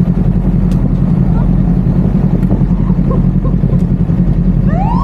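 A motorcycle engine running loudly and steadily, with a rapid pulsing beat. Near the end comes a short tone that rises and then falls.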